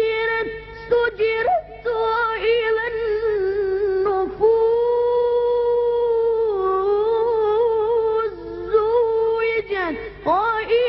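A child's voice chanting Quran recitation in the melodic tajweed style, drawing out long held notes with ornamented turns and pausing briefly for breath.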